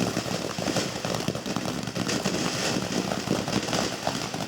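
Lit garden firework burning on the ground, giving out a continuous crackling hiss made up of rapid small pops.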